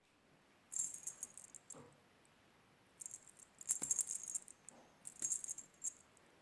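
A small rattle shaken in three short bursts, a bright, jingling clatter.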